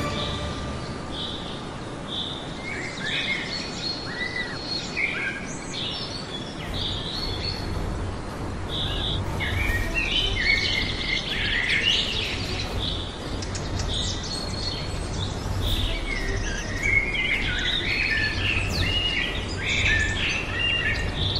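Birds chirping and calling in the bush, many short high notes repeating throughout, with a low steady rumble underneath from about a third of the way in.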